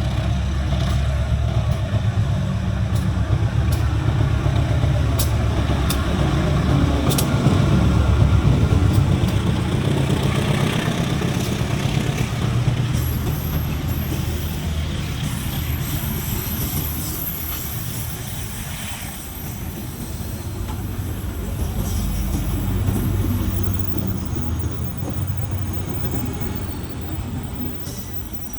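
Long diesel-hauled passenger train passing: a heavy low rumble from the locomotive's diesel engine, sharp wheel clicks in the first half, and a faint high wheel squeal about halfway through.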